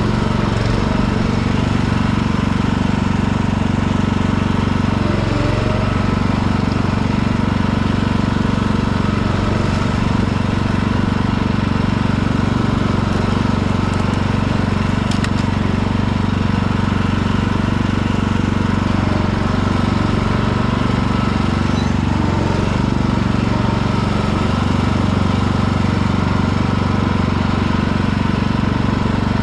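Riding lawn tractor's engine running at a steady speed while driving, with the mower blades not engaged.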